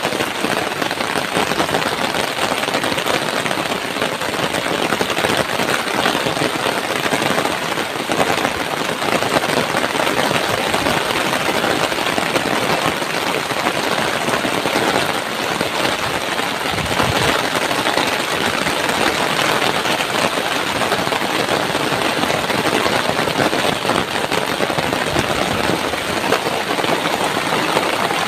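Heavy rain pouring down hard and steadily, a dense even hiss, driven by strong wind.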